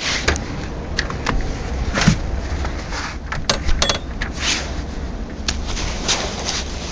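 Wind buffeting a phone's microphone in a snowstorm, a steady low rumble, with irregular clicks and knocks scattered through it.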